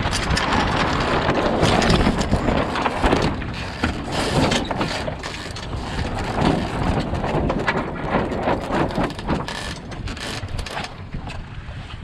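Enterprise sailing dinghy under way in a gusty breeze: wind buffets the microphone and water rushes along the hull, with scattered clicks and knocks. It is loudest in the first few seconds, then eases.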